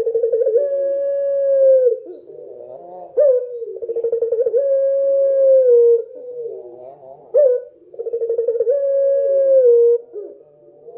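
Puter (ringneck dove) cooing three times, about every three and a half seconds: each coo opens with a short rising note and a quick rattling run, then a long held note that falls away at the end.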